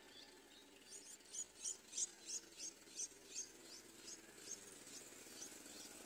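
Streak-eared bulbul nestling begging: a rapid series of short, high-pitched cheeps, about three a second, starting about a second in and growing fainter after the middle.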